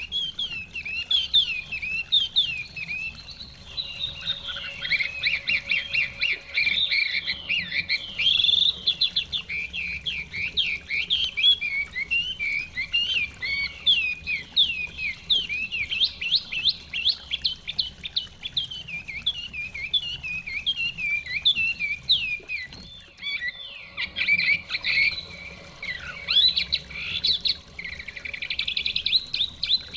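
Chinese hwamei singing a long, fast run of varied whistled and chirped notes, with a short pause a little past the middle.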